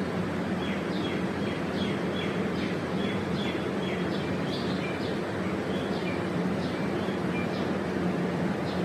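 A small bird calling with quick, repeated high chirps and short piping notes, over a steady low hum.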